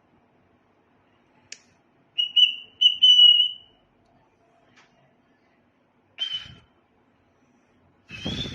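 White-faced cockatiel whistling: a few short, steady whistled notes in quick succession about two seconds in, then a brief chirp around six seconds and a louder call near the end.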